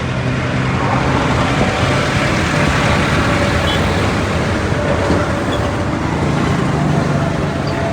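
Motor vehicle engines and road traffic running steadily, with a low engine drone under continuous road noise.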